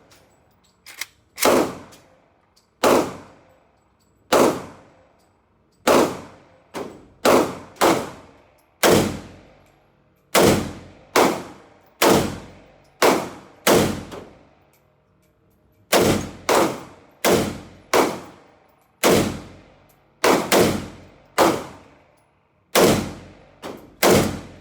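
Gunfire at a shooting range: about thirty single shots at an irregular pace, from half a second to a second and a half apart, in short strings with a few brief pauses. Each shot is a sharp crack with an echoing tail.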